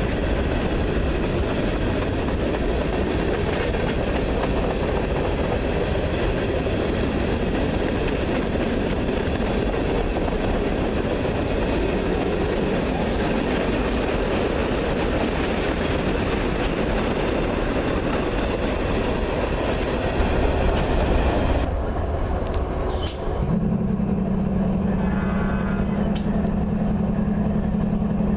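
A train running by with a steady, dense rumble of its wheels on the rails. The rumble cuts off suddenly about three-quarters of the way in, and a steady low hum takes over.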